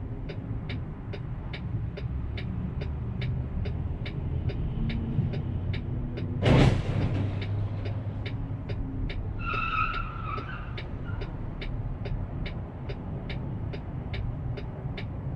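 Car driving, recorded from inside by a dash cam: a steady low road and engine rumble with an even clicking, about two and a half clicks a second. About six and a half seconds in comes one loud sharp bang, and near ten seconds a short high tone of about a second.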